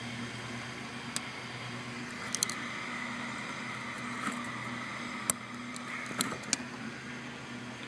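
A handful of short, sharp clicks and taps as a dirt-bike carburetor and its loosened float-bowl bolts are handled, over a steady low hum.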